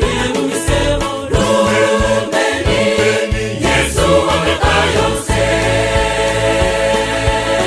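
Choir singing gospel music with instrumental backing; the voices give way to steadier held instrumental chords about five seconds in.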